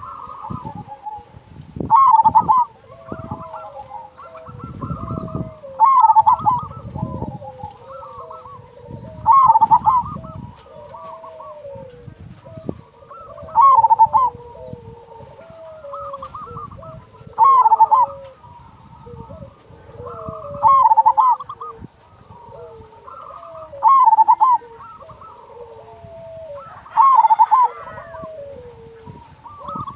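Zebra dove (perkutut) song: a loud cooing phrase repeats about every four seconds, with softer, lower cooing notes between the phrases.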